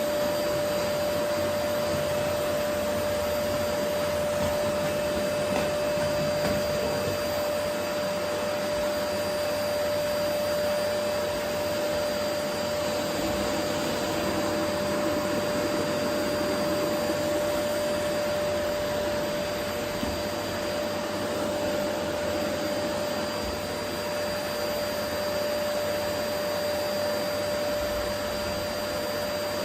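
Vacuum cleaner running steadily, a constant whooshing hum with a steady whine in it.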